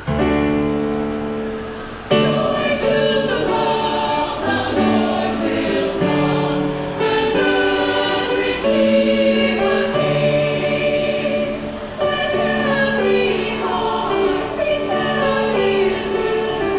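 A choir singing a Christmas piece, starting abruptly and growing louder about two seconds in.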